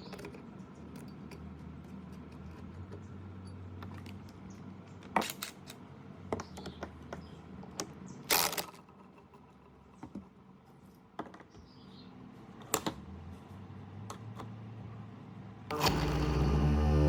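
Scattered light clicks and knocks of small metal parts being handled, over a faint low hum. About a second before the end, a much louder, steady humming sound with several tones starts.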